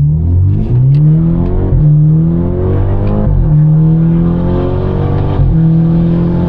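Straight-piped BMW 428i turbocharged four-cylinder under hard acceleration. The revs climb, drop sharply at an upshift about one and a half seconds in, climb again, and drop at a second upshift about three seconds in. After that the engine holds a steady drone.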